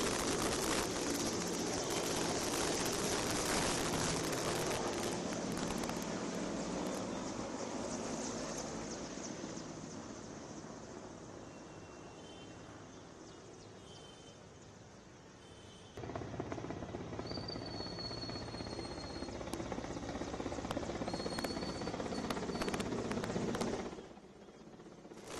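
Helicopter rotor and engine noise overhead, fading away over about fifteen seconds, then loud again after an abrupt cut. A short, high whistle sounds twice in the second half.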